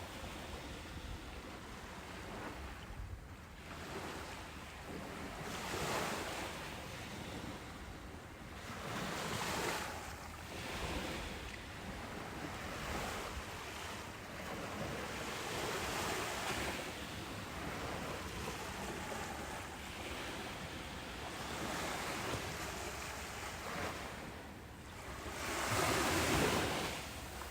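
Ocean surf: waves breaking and washing up a beach in a steady rush that swells and ebbs every few seconds, with the biggest swell near the end.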